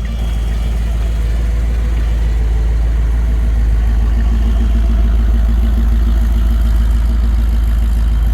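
A truck's engine running steadily at low revs, close by, getting a little louder about a second in and then holding steady.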